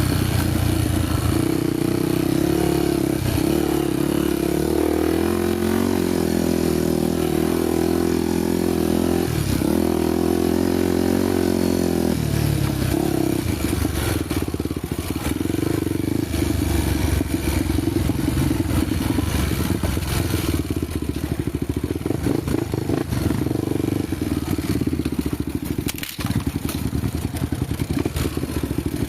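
Honda motorcycle engine running on a trail ride, holding a steady pitch for about the first twelve seconds. After that it runs unevenly, mixed with clattering and rattling.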